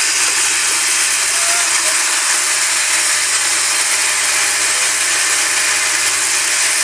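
Woodworking power tool running steadily, a loud even whirring hiss that does not change.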